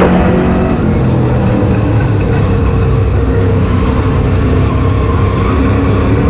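Super stock race car engine running hard at racing speed, a loud, steady drone.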